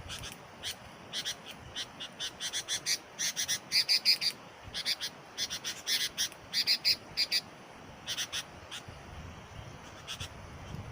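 Sooty-headed bulbul calling: quick series of short, sharp chirps in bunches, loudest about a third of the way in, then fewer and sparser toward the end.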